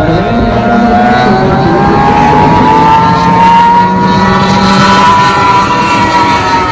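Outboard drag boat engine running at full throttle, its pitch climbing steadily as the boat accelerates, then holding high and easing slightly near the end.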